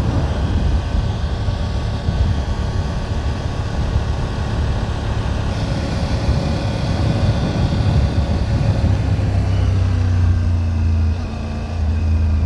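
Triumph Tiger 900 GT Pro's three-cylinder engine running while the motorcycle is ridden, heard steadily throughout, with a brief dip in loudness about eleven seconds in.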